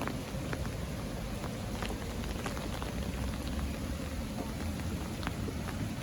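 Light rain falling, with scattered drops ticking sharply now and then over a steady low rumble.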